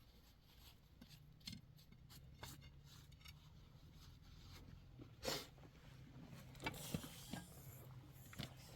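Faint, scattered light knocks and rubbing, with a sharper click about five seconds in and a few more around seven seconds, over a low steady hum.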